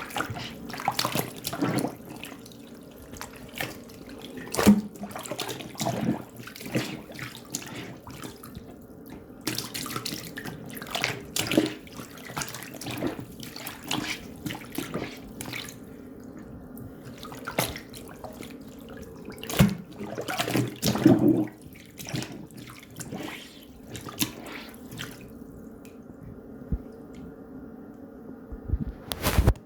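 Water splashing and running in fits at a sink, with irregular knocks and clatter between quieter stretches, over a faint steady hum.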